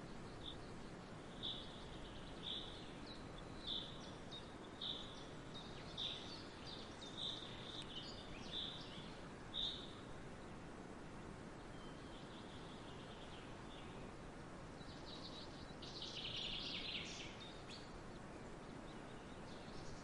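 A bird calls a short high note over and over, about once a second, for some ten seconds. After a pause, a longer, denser burst of calling comes about three-quarters of the way through. Underneath runs a steady, even hiss of outdoor ambience.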